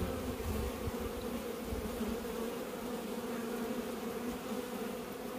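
A honeybee swarm, Italian honeybees, buzzing around and into a hive box as it settles in. The hum is steady and low-pitched.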